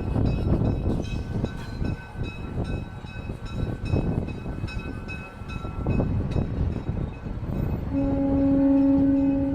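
Low rumbling noise, then about eight seconds in a train horn sounds one steady, loud note that is still held at the end.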